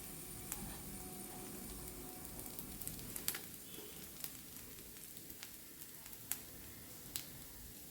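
Dosa batter frying in ghee on a hot griddle over medium-high flame, sizzling faintly and steadily with a few sharp pops scattered through.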